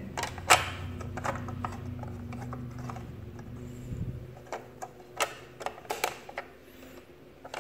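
Scattered light plastic clicks and taps as a plastic wall-mounting plate is fitted and latched onto the back of a plastic device casing, over a low steady hum that fades about halfway through.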